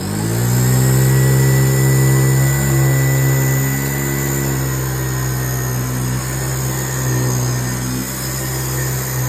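1978 Hoover Convertible Elite upright vacuum switched on, its motor rising in pitch as it spins up over the first half-second and then running steadily with a weird, chainsaw-like sound from the brush roll. The owner takes this for a brush roll that needs replacing, its bearings dried out or possibly shot.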